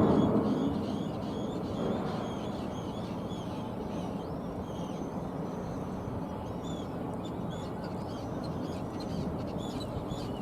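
Arctic terns calling over and over with short, harsh cries above a steady low outdoor rumble, which swells louder for the first second or so.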